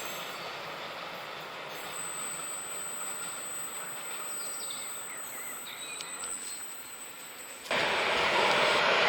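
Train running on the track, a steady rail noise with a thin high steady tone held for several seconds. About eight seconds in it suddenly gets much louder as the train passes close.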